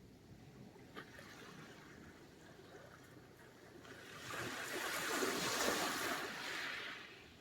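Sea surf: a low wash of water, then a wave surges in about four seconds in, swells, and drains away again just before the end.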